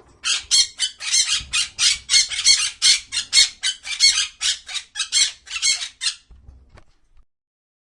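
A bird squawking over and over, about three short, harsh calls a second, stopping about six seconds in.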